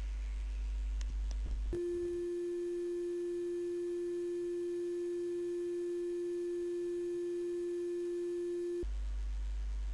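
A steady, mid-pitched pure electronic tone held for about seven seconds, starting about two seconds in. Before and after it there is a low electrical hum.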